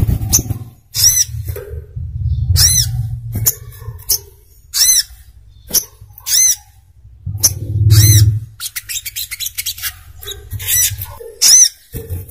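Brown-throated sunbird (sogok ontong) calling: a series of sharp, high chirps, each arching up and down, roughly one a second, with a quick run of ticking notes just after the middle. A low rumble comes and goes underneath.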